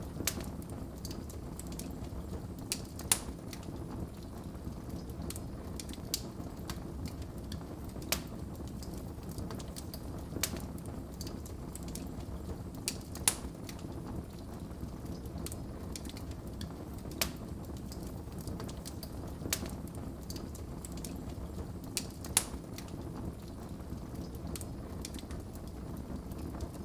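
Wood fire crackling in a fireplace: a steady low rumble of burning with sharp, irregular pops every couple of seconds.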